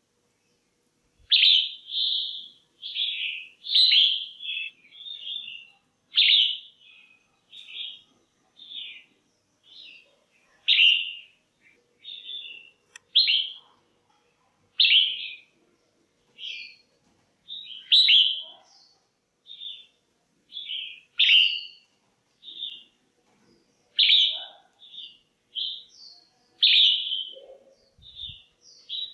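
Female red-whiskered bulbul calling: short, bright chirping notes in loose groups, about one or two a second. It is the kind of female call that bulbul keepers play to rouse males or to pair birds.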